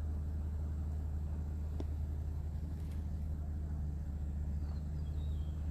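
Car engine running steadily at a crawl, heard from inside the cabin as a low, even hum.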